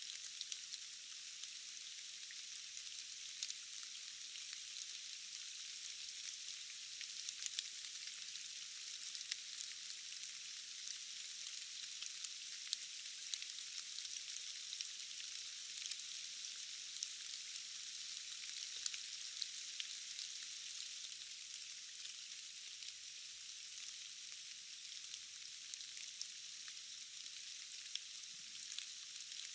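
Steady forest rain: a dense, even hiss of falling drops with frequent single, louder drop ticks. The sound is thin and high-pitched, with no low rumble.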